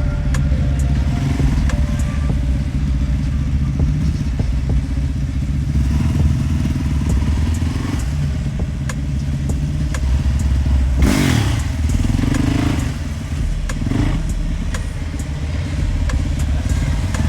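Motorcycle engine running steadily with a rapid low throb. About eleven seconds in there is a brief loud rushing burst.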